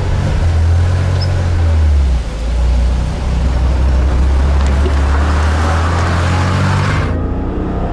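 Car engine running with a loud, steady low drone under a wide hiss of road and wind noise; the hiss cuts off suddenly about a second before the end.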